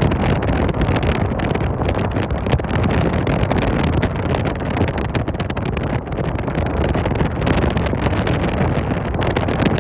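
Strong wind buffeting the microphone: a loud, continuous rumbling rush with rapid flutter.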